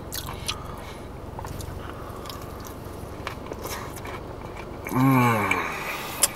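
A man chewing a mouthful of crispy fried chicken sandwich, with small wet clicks and crunches. About five seconds in comes a short voiced hum.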